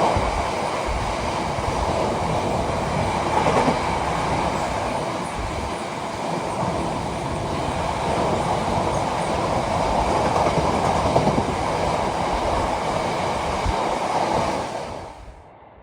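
A train running past on the line, a loud steady rush of wheel and rail noise, which cuts off suddenly near the end.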